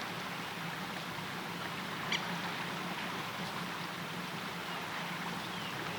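Steady rush of a stream. About two seconds in there is one short, sharp high sound, and faint short chirps come near the end.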